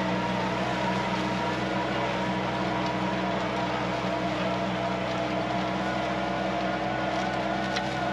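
TYM 4815 compact diesel tractor engine running steadily under load while pulling a cutting harrow.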